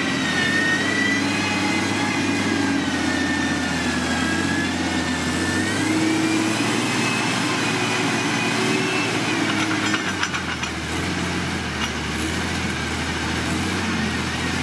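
Diesel engine of heavy road-construction machinery running, with a high whine that slowly rises and falls in pitch. A short cluster of clicks comes about two-thirds of the way in.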